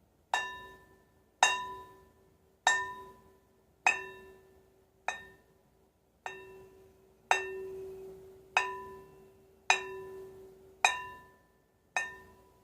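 A struck metal bell-like instrument rung in a steady beat, about once every 1.2 seconds, eleven strikes in all. Each strike gives a bright clang that fades within a second over a lower hum that keeps ringing between strikes.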